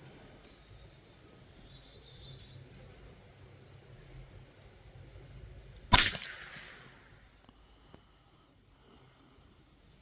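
A single .22 LR rifle shot about six seconds in, with a short ringing tail, fired while sighting in the scope. Insects chirr steadily throughout.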